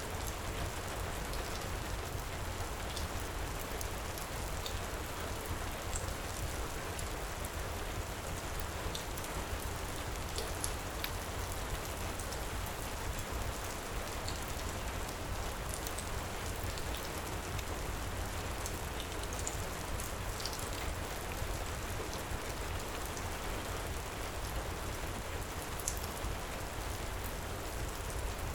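Heavy rain falling steadily, with a low rumble underneath and scattered faint crackles from a wood fire in a fireplace.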